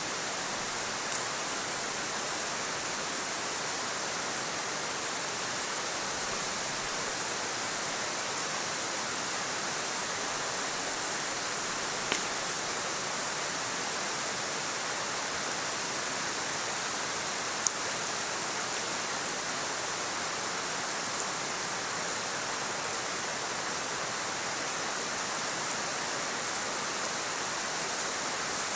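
A steady, even rushing hiss, like running water, with three single sharp clicks: one about a second in, one about twelve seconds in and one near eighteen seconds.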